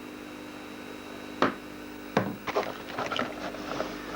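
Campfire kindling being lit: one sharp crack about a second and a half in, then from about two seconds in a run of irregular crackles and snaps as the wood and paper catch, over a steady low hum.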